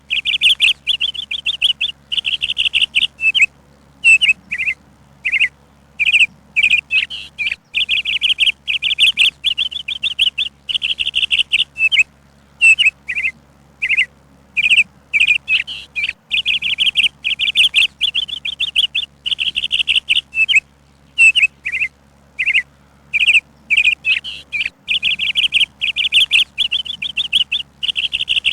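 A songbird chirping without a break: fast trilled runs of chirps about a second long, with short single chirps between them.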